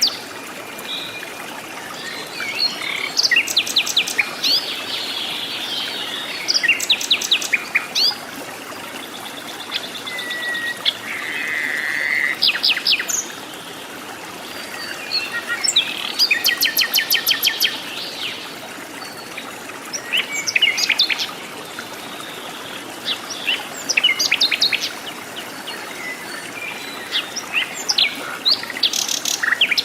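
Forest birds calling: bursts of rapid, evenly spaced chirping notes every few seconds, high-pitched, over a steady background hiss.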